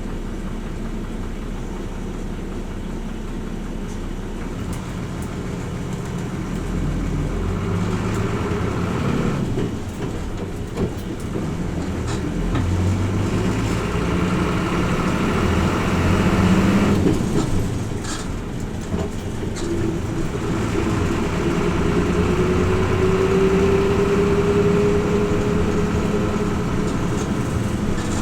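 Hino Rainbow RJ (P-RJ172BA) diesel route bus heard from inside the cabin. The engine idles, then pulls away about six seconds in and accelerates through the gears, the engine note breaking off at shifts around ten and eighteen seconds in. In the second half a thin whine rises steadily.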